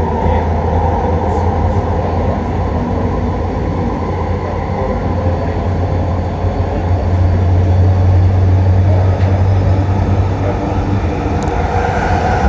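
Bombardier Mark II SkyTrain car running at speed, heard from inside the car: a steady low rumble and hum of the train on the track, growing a little louder in the second half.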